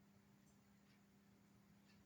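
Near silence: a faint steady low hum with three faint ticks.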